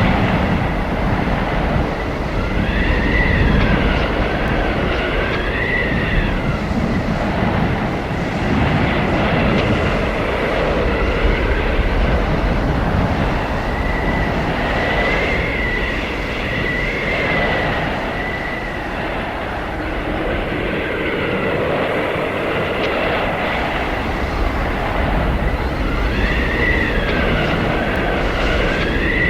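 Howling blizzard wind: a steady heavy rush of wind with a low rumble, over which a high whistling howl rises and falls in pitch, swelling up three times.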